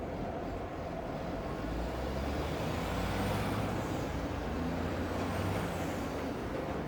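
A heavy vehicle's low rumble swells through the middle and eases off near the end, over a steady hiss of city ambience. A faint high whine glides up and down twice while the rumble is at its loudest.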